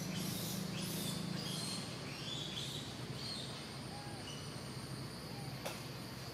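Small birds chirping in short, falling calls, mostly in the first three seconds, over a steady high insect drone and a low steady hum.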